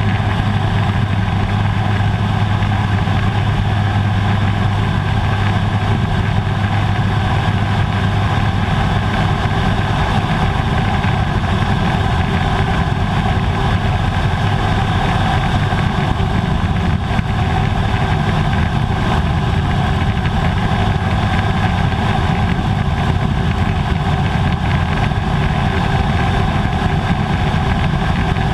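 Air Tractor AT-502's Pratt & Whitney PT6A turboprop engine and propeller running steadily on a landing approach, a loud continuous drone whose low hum eases slightly about halfway through.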